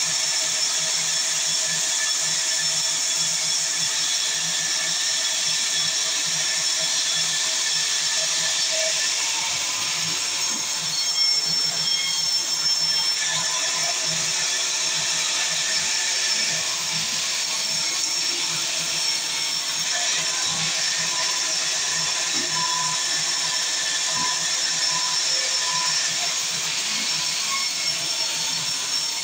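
Sawmill saw running steadily with a high-pitched whine and hiss that doesn't let up.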